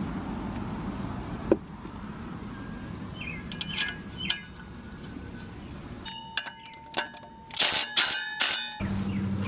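Metal hand tools clinking and ringing against steel while the new flexplate's bolts are worked. A quick run of ratchet-like clicks comes about two-thirds of the way in, followed by louder metallic clatter.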